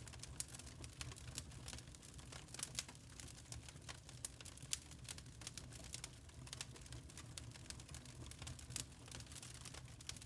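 Burning charcoal crackling: many small, irregular pops and snaps over a low steady rumble.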